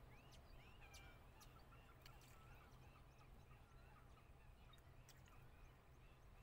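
Near silence with faint, repeated bird chirps in the background and a few faint ticks.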